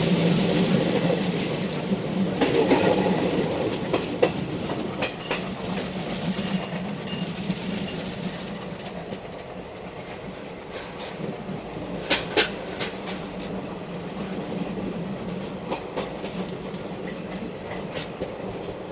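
Passenger train coaches running along the track, wheels clicking over the rail joints with a steady rumble that eases over the first half, and a few sharp clicks about twelve seconds in.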